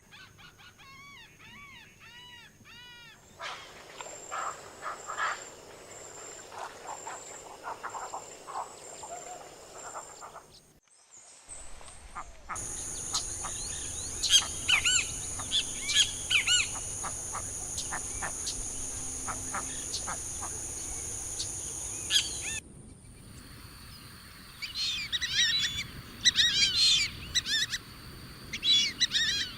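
Wild birds calling and singing in several recordings cut one after another, from repeated arched whistled notes to dense bursts of short chirps. A steady high-pitched hum runs under much of it.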